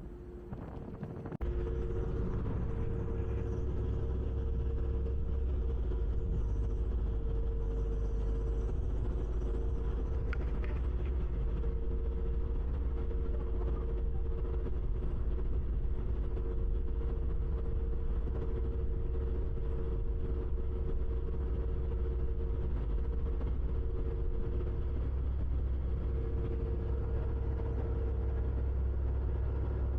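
Ferry engines running: a steady low drone with a constant hum, heard on board. It sets in abruptly about a second and a half in.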